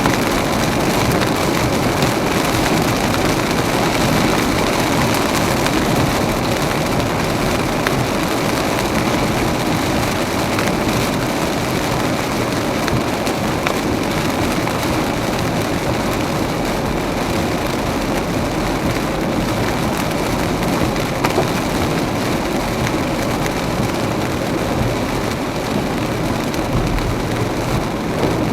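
Steady noise of heavy rain and a car's tyres on a flooded road as the car drives through a downpour.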